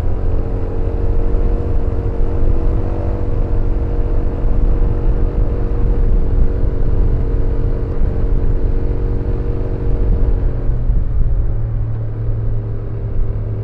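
BMW C400X scooter's single-cylinder engine running under way at nearly constant revs, with a heavy low rumble of wind underneath. About eleven seconds in the engine note drops away as the throttle eases off.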